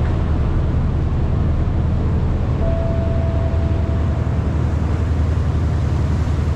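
Sightseeing boat's engine running with a steady low drone, under a constant hiss. A single steady tone sounds for about a second and a half near the middle.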